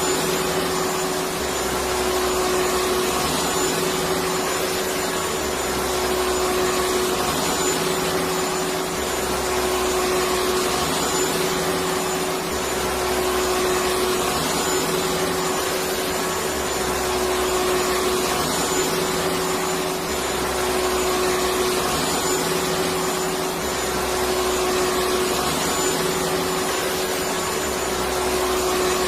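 Electric vacuum cleaner running steadily: an even rushing hiss over a constant motor hum, with a low throb that swells and fades about every two seconds.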